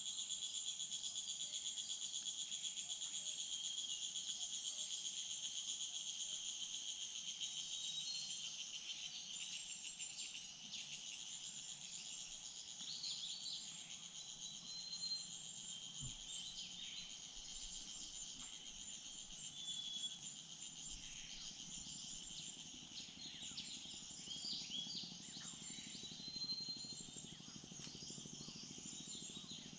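Insects trilling in a rapid, even pulse that fades about ten seconds in, with short bird chirps scattered through the rest.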